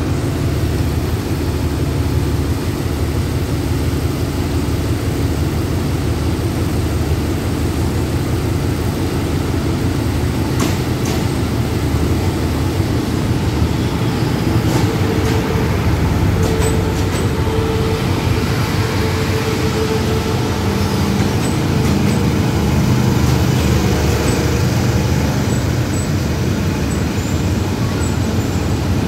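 Passenger train rolling slowly into a station, heard from a carriage window: a steady low rumble of wheels and running gear, with a few sharp clicks around the middle.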